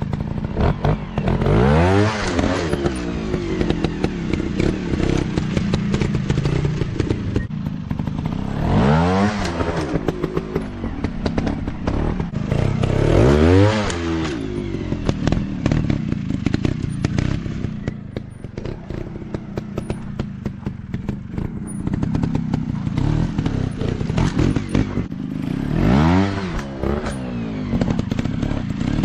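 Dirt bikes running and revving, with one bike after another swelling up and dropping away in pitch about four times, over a steady background of engines. Through it runs a constant crackle of clatter, and there is a quieter lull a little past the middle.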